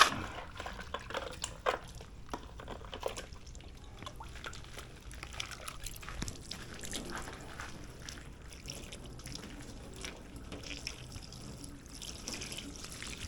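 Water dripping and splashing, with scattered short clicks and knocks from handling.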